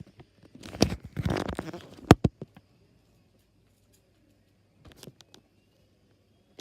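Rustling and a few sharp clicks or knocks, the loudest click about two seconds in, then faint clicks later on.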